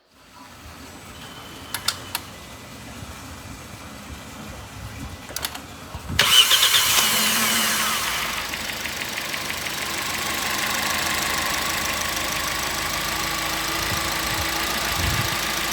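A few clicks, then a 2017 Kia Rio's petrol engine cranks and catches about six seconds in and settles into a steady idle. This is the first start-up after an engine overhaul to repair a connecting rod damaged by water drawn in through the air intake.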